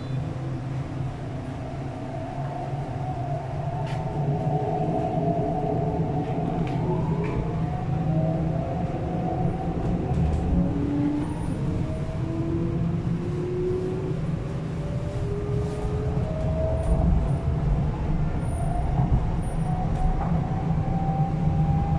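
MTR East Rail R-Train electric multiple unit pulling away and accelerating, heard on board: the traction motor whine rises steadily in pitch in several climbing tones over the steady rumble of wheels on track, growing louder as it speeds up.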